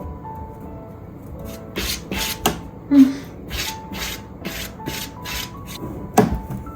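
A quick series of about ten short rasping, scratching strokes, with a couple of sharper knocks near the end, over soft background music.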